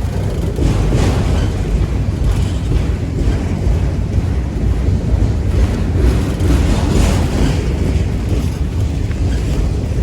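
BNSF freight train of auto-rack cars rolling past close by: a steady, loud rumble of wheels on rail, with wind buffeting the microphone.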